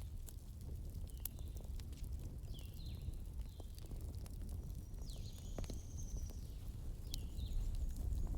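Wood fire burning in a fireplace: a steady low rumble with scattered sharp crackles and pops, and several short, high, squeaky whistles that bend in pitch.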